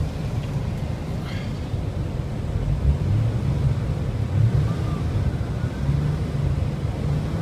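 2003 Ford Taurus 3.0 L 24-valve DOHC Duratec V6 running and revved in several short bursts, a few seconds apart. The engine revs up nice and smooth, the sign of a healthy engine.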